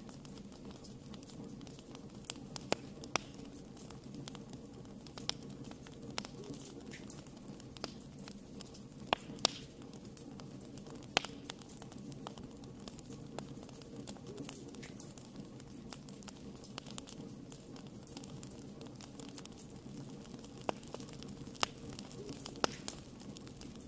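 Wood fire burning in a fireplace, crackling steadily with irregular sharp pops over a low, even rumble of flames; a few louder snaps stand out.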